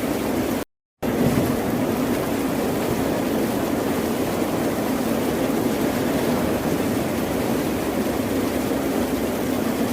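Steady rushing noise of ocean surf, broken by a complete dropout to silence for about a third of a second near the start.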